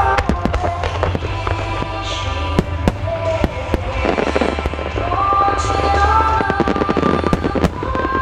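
Wide starmine fireworks display firing: a rapid, dense string of sharp bangs and cracks from shells being launched and bursting, over a steady low rumble. Melodic music plays underneath throughout.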